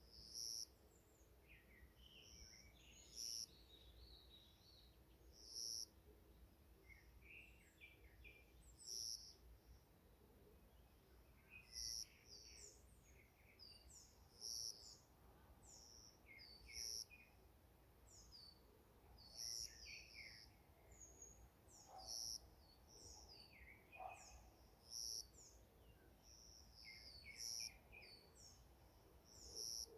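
Forest birds singing: one bird repeats a short, high call about every two and a half seconds, with other birds chirping more softly in between.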